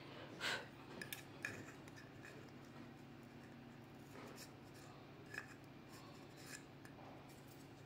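Faint, scattered small clicks and light scraping of metal tweezers picking caked dirt out from inside a Kärcher WD 3 vacuum cleaner's motor unit, over a low steady hum.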